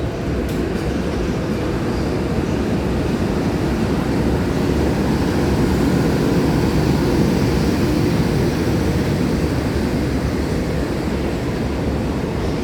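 Container freight train hauled by an EH500 electric locomotive running through a station: a loud, steady, deep rumble that swells a little toward the middle.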